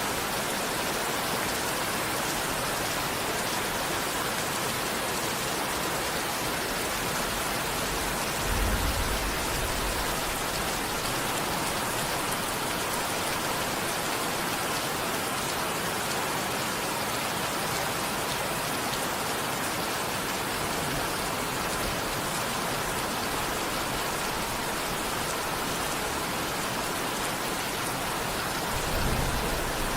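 Steady rain falling, an even hiss of drops throughout. A brief low rumble comes about nine seconds in and another near the end.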